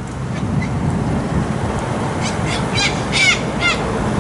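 Long-billed corellas calling: a run of about five short, harsh screeches in the second half, over steady road traffic noise.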